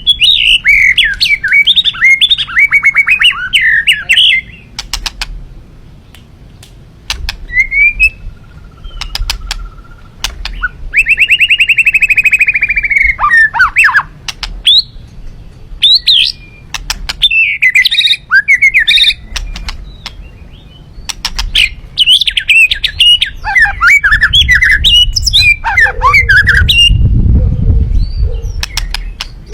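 A songbird singing loud, varied phrases of quick chirps and whistles in bursts with short pauses, including a fast, even trill about eleven seconds in. A low rumble sounds near the end.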